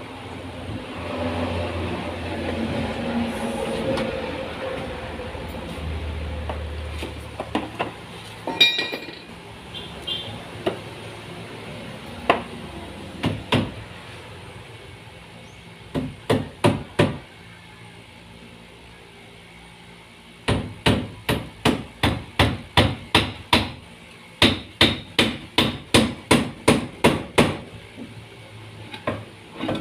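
Hammer striking, likely driving nails into wood, in quick runs of blows about two to three a second, with scattered single knocks before them. The first several seconds hold a steady rumbling noise.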